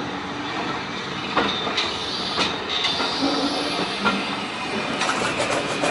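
Heritage passenger train carriages running along the track: a steady rumble with a few short clicks of the wheels over the rail joints.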